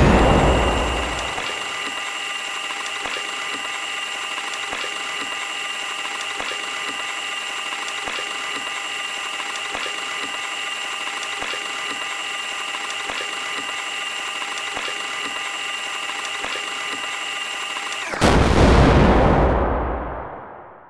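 Washing machine running: a steady whine of several fixed tones with faint, evenly spaced ticks. A loud low rumble opens it, another comes near the end, and then the sound cuts off.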